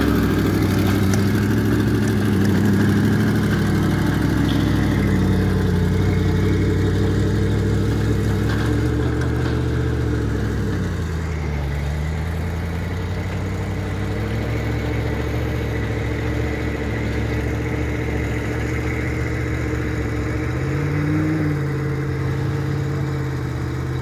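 Four-wheel-drive SUV engines running under load as the vehicles push through deep snow. The engine note dips and rises a few times.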